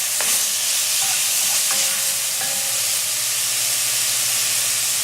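Chicken frying in a pan with butter, garlic, mushrooms and onions: a steady sizzle.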